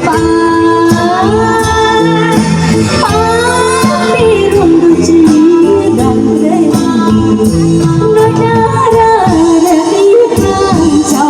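Khmer romvong dance song: a singer's gliding, ornamented vocal line over band accompaniment with a steady percussive beat.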